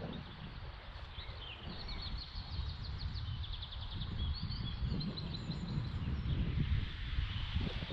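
Wind buffeting the microphone with a low, gusty rumble, while a small songbird sings a quick run of high, repeated notes from about one second in for two or three seconds.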